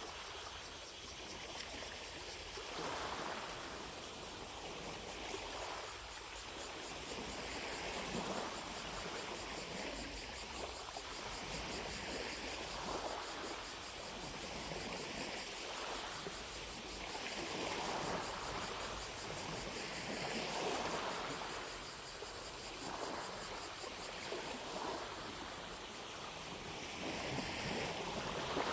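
Small lake waves lapping at the shore, a soft wash swelling every few seconds. Behind it, distant cicadas keep up a steady high drone.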